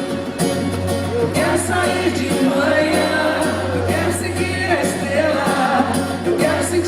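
Live band music with a woman singing the melody over steady drums.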